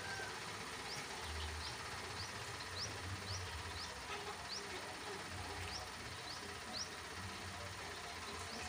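A bird chirping: short, high, rising chirps repeated about twice a second, over a faint on-and-off low rumble.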